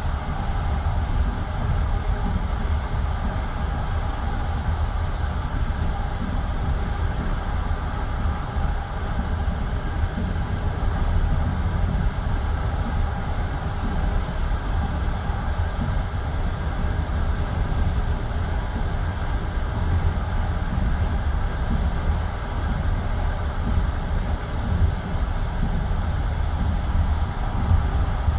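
Passenger train running at speed between stations, heard from inside a carriage: a steady rumble and rattle of the wheels on the track.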